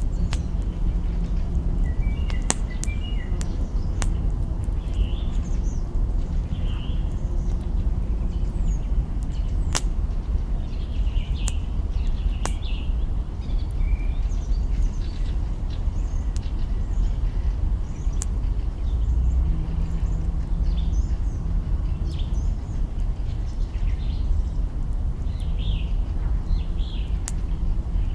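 Campfire of burning branches crackling, with sharp pops every few seconds over a steady low rumble. Small birds chirp and twitter throughout.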